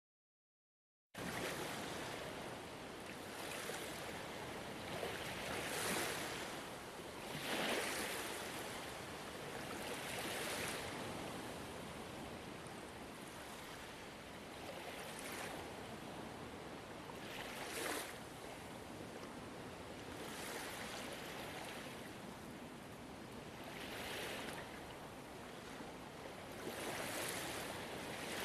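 Gentle ocean waves: a steady rush of surf that swells every few seconds. It starts suddenly about a second in, out of silence.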